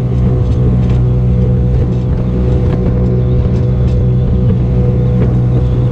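Motorboat engine running steadily at a constant speed under way.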